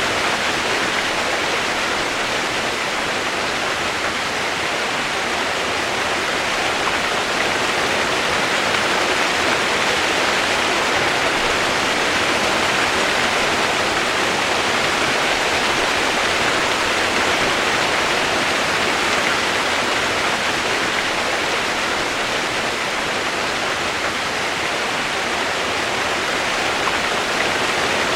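Steady rain making an even rushing hiss, with no single drops, thunder or other sounds standing out.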